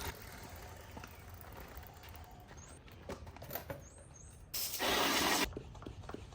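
Washing a dirt bike: faint patter and drips, then a loud, even spray of water lasting about a second, about four and a half seconds in. A few short high chirps come just before the spray.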